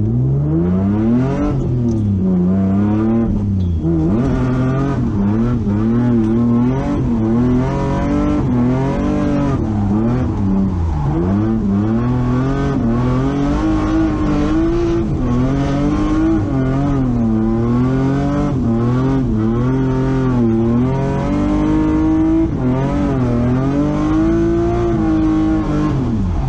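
Car engine revving up and down over and over as the car is driven hard, its pitch rising and falling every second or two.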